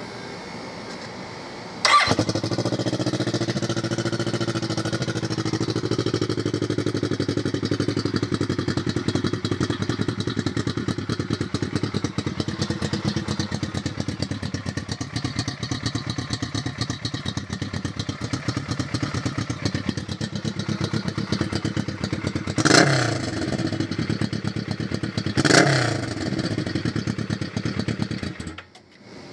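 2012 Kawasaki Ninja 650 parallel-twin engine, exhausting through a finished exhaust with baffles installed. It starts about two seconds in and idles steadily, its idle settling slightly lower over the first few seconds. Two quick throttle blips come near the end, then it shuts off.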